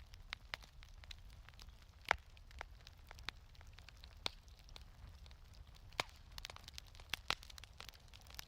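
Wood fire crackling in a fireplace: irregular sharp pops and snaps over a low steady rumble, the loudest pop about two seconds in.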